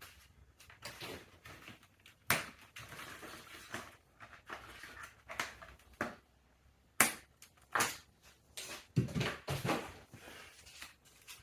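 Packing material being pulled off and handled: irregular crinkling and rustling with sharp snaps, and a couple of duller knocks about nine seconds in.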